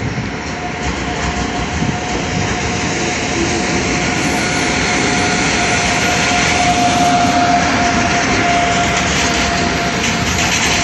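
A container freight train, headed by electric locomotives, passing close by at speed: steady wheel and rail noise that grows louder as the locomotives go past, then the wagons rolling by. A steady whine sits above the rolling noise and is loudest about two-thirds of the way through.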